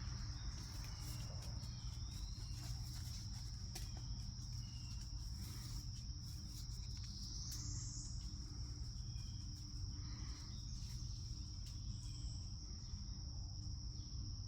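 Steady high-pitched insect drone of crickets or similar insects, continuous, with a few faint bird chirps and a low steady rumble underneath.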